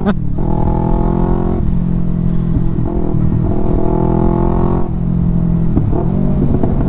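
Yamaha R3's 321 cc parallel-twin engine running through an Akrapovic full-system exhaust while riding, loud. The engine note shifts about one and a half seconds in and again near five seconds, as the throttle or gear changes.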